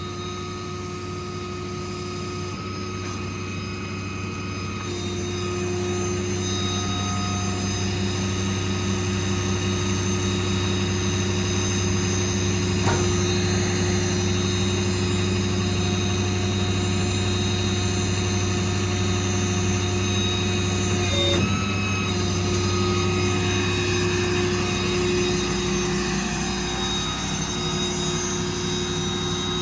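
Hydraulic crane working off the truck's running 6.7 Power Stroke diesel, a steady mechanical drone that steps up in loudness about six seconds in and then holds steady.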